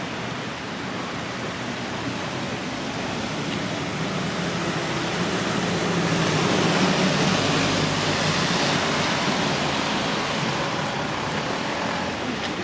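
Steady hiss of rain in a town street, with a vehicle's tyres on the wet road swelling to a peak about halfway through and then slowly fading.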